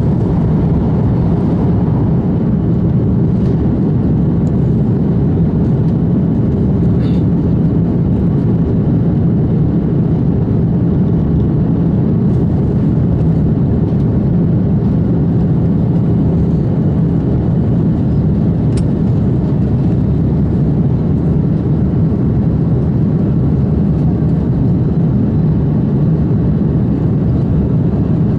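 Steady cabin roar inside an Airbus A330-300 airliner in flight, from its Rolls-Royce Trent 700 engines and the airflow. It is a deep, even rumble that does not change in pitch or loudness, with a couple of faint clicks.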